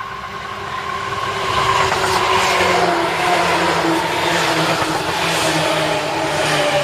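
Seibu Railway electric train running past, its motor whine slowly falling in pitch. The rolling noise swells over the first two seconds and then stays loud.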